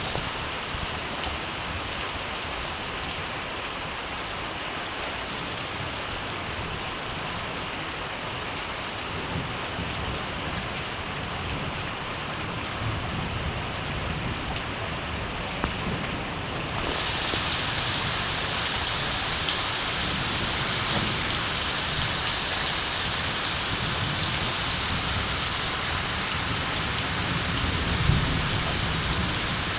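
Steady rain falling, with low rumbles of distant thunder. A little past halfway the rain turns brighter and slightly louder.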